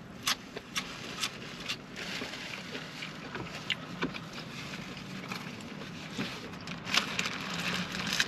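Close-up eating sounds: a person chewing fast food, with scattered sharp clicks and crackles, over a steady low hum.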